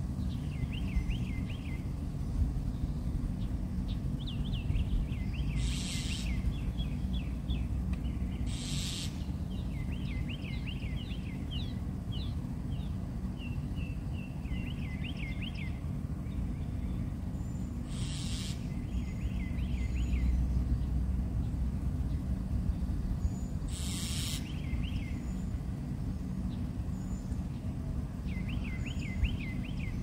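A songbird singing runs of short, quickly repeated sweeping notes, over a steady low background rumble. A few brief hissing bursts come through about a quarter, a third, two thirds and four fifths of the way in.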